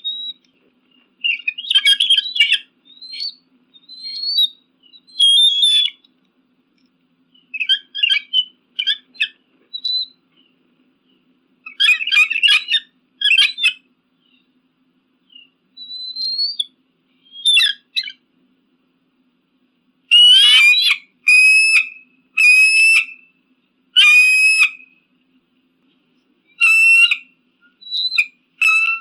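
Eagle calling: bursts of high, thin chattering and whistled notes, with a run of four harsher calls about twenty seconds in.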